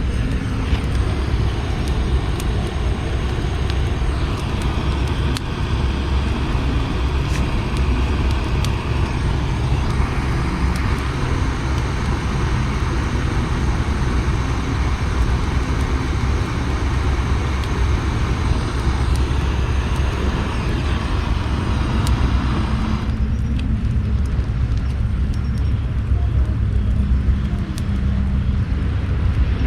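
Wind buffeting the microphone: a steady low rumble with a hiss over it that falls away about 23 seconds in.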